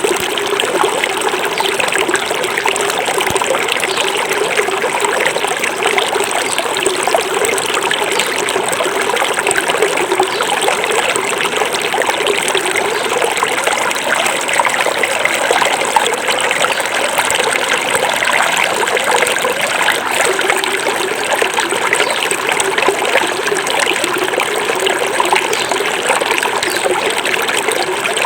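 Small forest river flowing over stones, a steady babble and trickle of running water.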